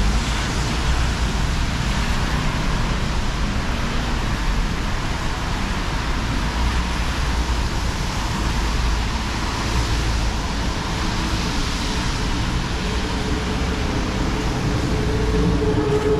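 Steady hiss of rain mixed with road traffic: an even, unbroken noise with no distinct single events.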